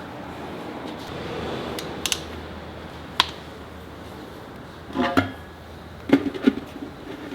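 Metal hand tools clinking and knocking against metal: a few sharp clicks, then several louder clanks that ring briefly, over a steady low hum.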